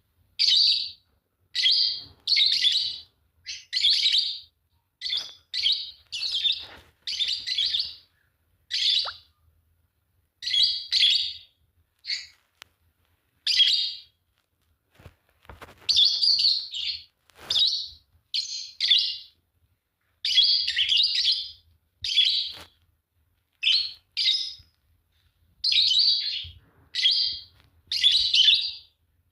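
A pair of Fischer's lovebirds chirping: short, shrill, harsh chirps in quick succession, about one each second, with a few brief pauses.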